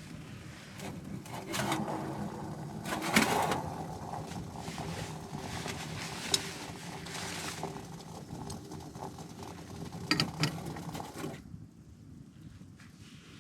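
Pot of water at the boil on a wood stove: a steady bubbling hiss with several metallic knocks and clanks from the pot being handled. The boiling sound cuts off suddenly near the end, as the pot comes off the heat.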